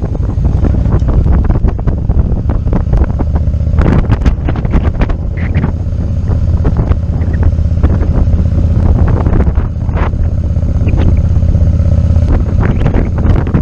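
Motorcycle engine running steadily under way, recorded from on the moving bike, with wind buffeting the microphone in irregular gusts.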